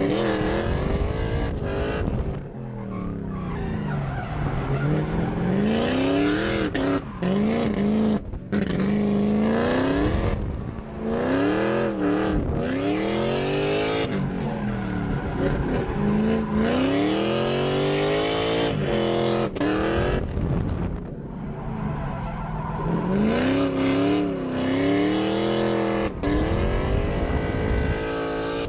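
Drift car engine revving hard, its pitch climbing and dropping again and again as the throttle is worked, with tyres skidding and squealing.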